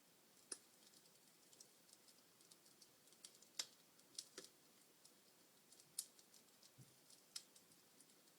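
Wood fire crackling in a fireplace: burning logs give irregular sharp pops and snaps over a faint hiss. The loudest snaps come about three and a half and six seconds in.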